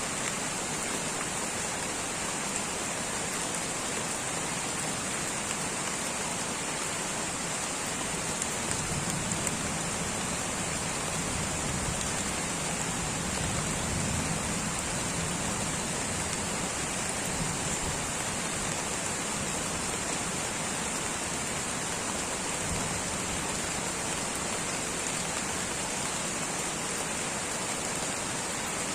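Light rain falling steadily in a tropical rainforest, an even hiss of drops, with a faint low rumble that swells and fades in the middle.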